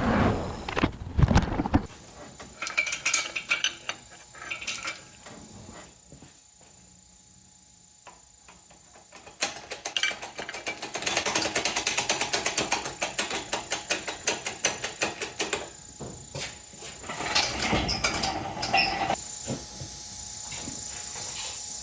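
Hand tools at work on a car engine: scattered metal clanks and knocks, and about halfway through a hand ratchet wrench clicking rapidly for several seconds as bolts are turned.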